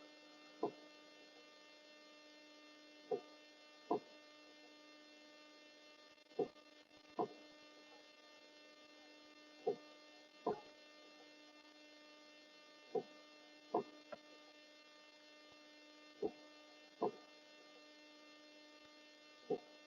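Steady electrical hum, with pairs of short soft thumps about a second apart that repeat evenly every three seconds or so.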